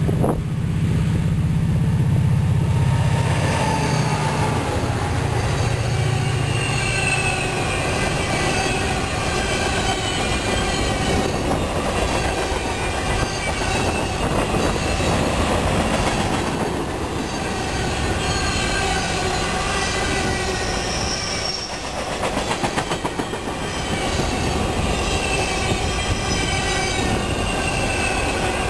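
Freight train passing close by: the diesel locomotives' low engine drone for the first several seconds, then double-stack container cars rolling past, wheels squealing in thin wavering high tones and clicking over the rail joints.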